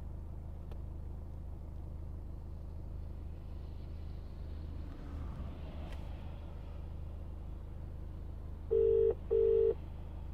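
A steady low hum, then, about nine seconds in, a double ring of a British telephone ringback tone: two short rings close together. The outgoing call placed through the Parrot CK3100 Bluetooth hands-free kit is ringing out.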